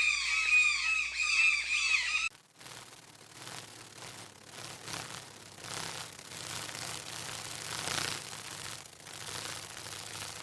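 A fast run of short squawking animal calls, each note dipping in pitch, cut off abruptly about two seconds in. Then comes a quieter stretch of uneven rustling noise with a faint low hum.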